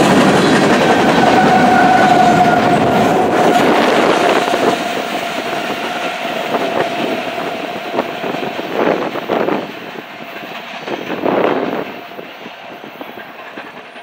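Freight cars rolling past on the rails, wheels running over the track with a steady high squeal for several seconds. The sound then fades as the end of the train moves away.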